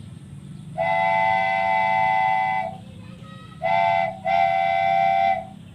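Toy train's horn sounding three times: a long blast, a short one, then another long one, over a steady low hum.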